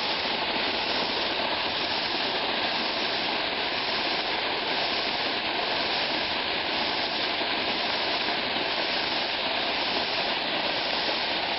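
Waterfall and rushing river water, a steady, unbroken roar of falling water.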